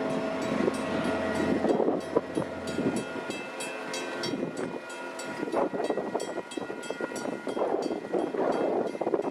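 Commuter train rolling through a grade crossing, its wheels rumbling on the rails, with a deeper engine hum in the first couple of seconds. The crossing signal bells ring steadily throughout, their regular strikes standing out more clearly from about three seconds in.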